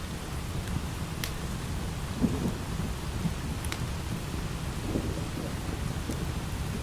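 Thunder rumbling low under steady light rain, swelling about two seconds in and again near five seconds, with a couple of sharp pops.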